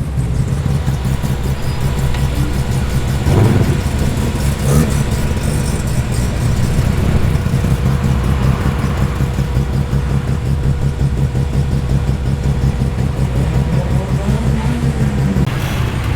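Performance car engines idling nearby with a steady low rumble and a fast, even pulse.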